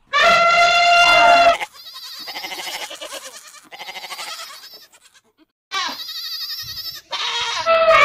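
An elephant trumpets once, a loud, steady brassy call lasting about a second and a half. Then young goat kids bleat repeatedly in wavering, quavering calls, and another loud call starts near the end.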